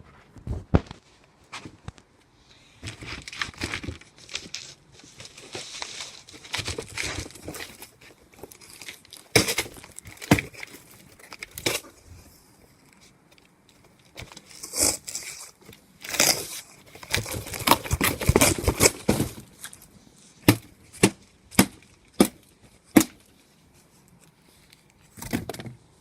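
Cardboard box being crushed and torn, with rustling, crumpling stretches and sharp knocks from blows of a vacuum cleaner pole. Near the end, five quick blows land in a row.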